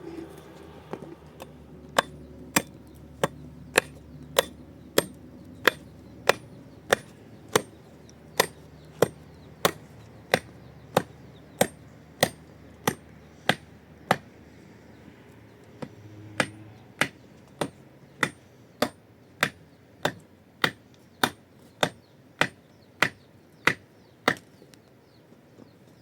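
Steady chopping, sharp strokes about one and a half a second, with a short pause a little past halfway before the strokes resume.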